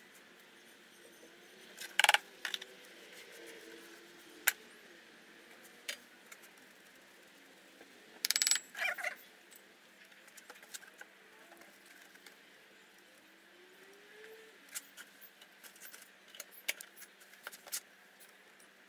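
Scattered clicks and knocks of small objects being handled and set down on a workbench, with louder clatters about two seconds in and about eight and a half seconds in.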